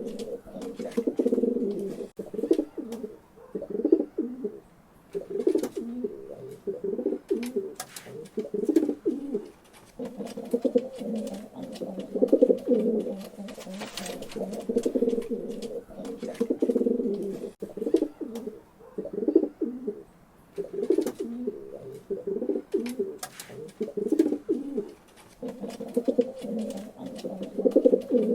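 Pigeons cooing, several calls overlapping in repeated low phrases, with occasional sharp clicks among them.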